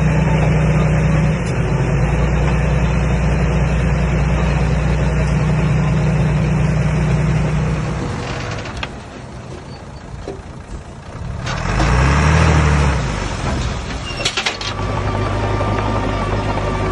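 Komatsu D21A bulldozer's diesel engine running steadily, then fading for a few seconds. Around two thirds of the way in it revs up and back down in pitch, and near the end it settles into a steady note again.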